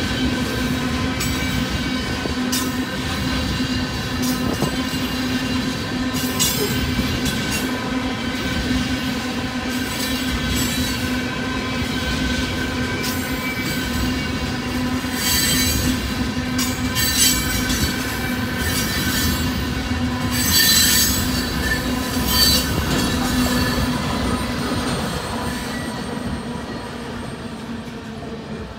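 A train of loaded ethanol tank cars rolling past on steel wheels, with a steady squeal and irregular clicks and clatter from the wheels on the rails. The sound fades over the last few seconds as the end of the train goes by.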